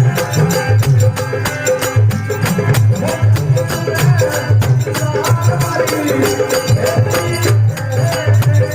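Rajasthani folk bhajan music: a dholak beats a steady rhythm under sharp, bright percussion strikes and a sustained melodic line.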